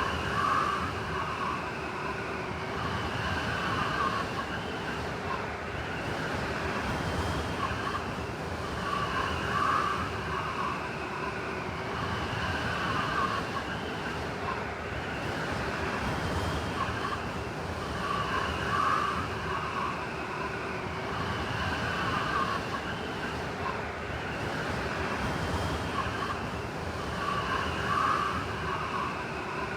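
Blizzard wind blowing steadily, with whistling gusts that swell and fade about every nine seconds.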